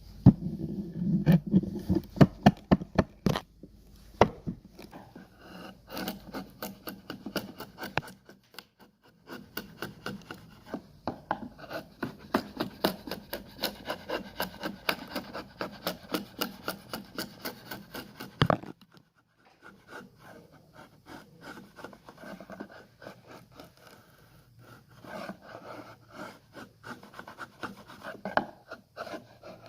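A hand tool scraping and rubbing across wood in quick repeated strokes, about two or three a second, stopping briefly a few times.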